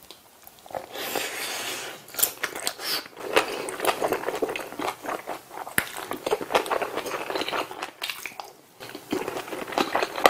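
A person chewing a mouthful of rice and spicy soybean-sprout bulgogi close to the microphone, with irregular wet clicks and crunches from the mouth.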